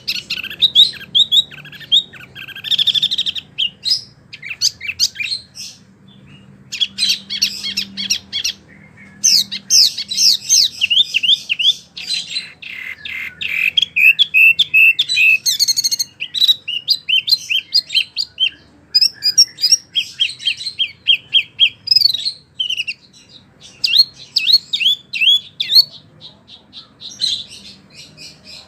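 Wambi songbird singing: rapid strings of sweeping chirps and trills in bursts of a few seconds, broken by short pauses.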